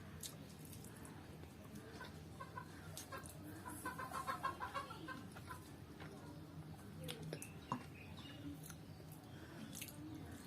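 Chickens clucking faintly in the background, a quick run of short calls about two to five seconds in, with scattered small clicks and smacks of eating close by.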